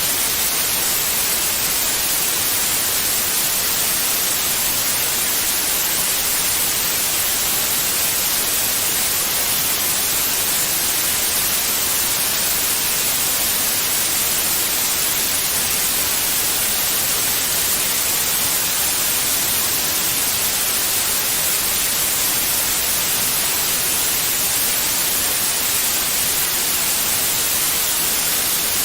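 Steady white noise, an even hiss across the whole range that does not change.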